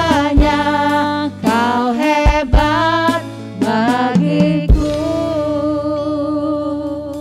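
Worship song: a singer over band accompaniment with drum hits, ending on a long held note with vibrato that slowly fades.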